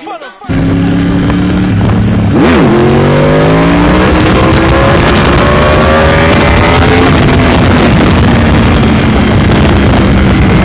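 Sport motorcycle engine heard from an onboard camera, with wind rushing over the microphone. It runs steady, dips and picks up again about two and a half seconds in, then rises in pitch as the bike accelerates and holds near the end.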